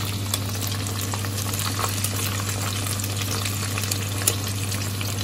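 Breadcrumb-coated chicken pieces deep-frying in hot oil in a pot: a steady sizzle full of small pops and crackles, with the pieces stirred by a wooden spatula. A steady low hum runs underneath.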